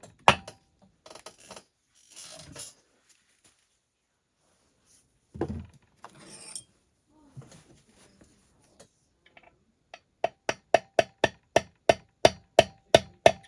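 Woodruff key being tapped into the crankshaft keyway of a Husqvarna 288 XP chainsaw, a tight fit. First scattered clicks and a knock of parts being handled, then from about ten seconds in a quick run of about a dozen light metal taps, about four a second, each with a short ring.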